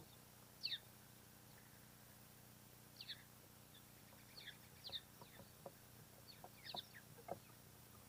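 Small birds calling: a scattered series of short chirps, each falling quickly in pitch, coming more often in the second half, with a few soft ticks among them.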